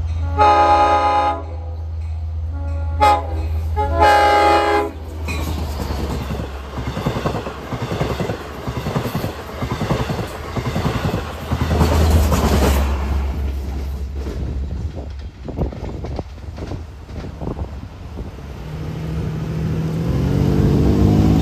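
Long Island Rail Road diesel train sounding its horn for the grade crossing, a long blast, a short one and another long one in the first five seconds. Then the locomotive's engine rumble and the double-deck coaches rolling past with a steady clickety-clack of wheels over the rail joints. Near the end a low engine hum rises.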